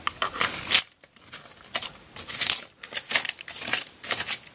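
Scraping and rustling in loose dirt and stones: a series of irregular, gritty strokes as the ground is dug through, in a small, enclosed room.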